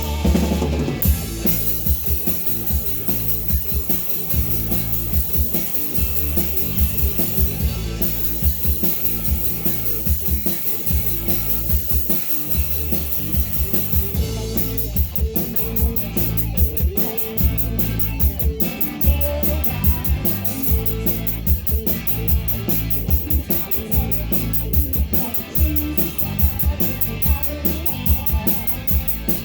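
A rock band playing live: drum kit, electric guitars and bass.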